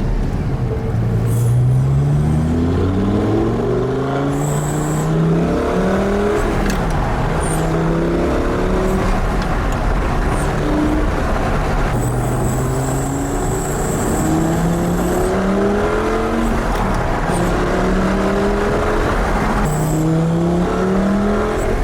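Mk1 Lamborghini Gallardo's 5-litre V10 on its stock exhaust pulling hard, its pitch climbing and then dropping back again and again as it runs up through the revs and changes gear.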